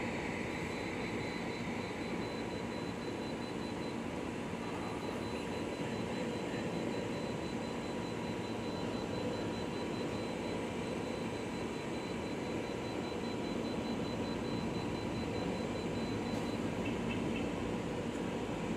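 De'Longhi Pinguino portable air conditioner running on full blast: a steady whoosh of the blower fan over the hum of its compressor. A thin high tone holds steady through most of it and stops near the end.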